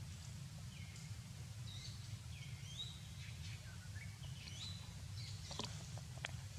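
Birds chirping and calling in short gliding notes over a steady low outdoor rumble, with two sharp clicks near the end.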